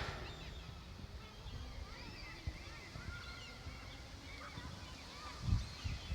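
Birds chirping faintly in many short calls over a steady low rumble of wind and city noise, with a brief low thump about five and a half seconds in.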